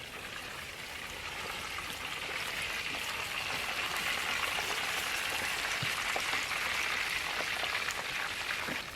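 Food frying in hot oil, a steady sizzle with fine crackles that grows louder through the middle and falls away near the end.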